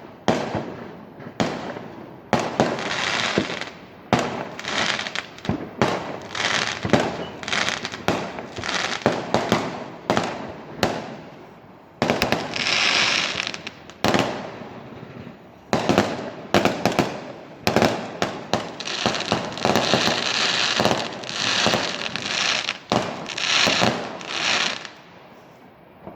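A barrage of fireworks: sharp bangs one after another, mixed with loud crackling bursts, dying away near the end.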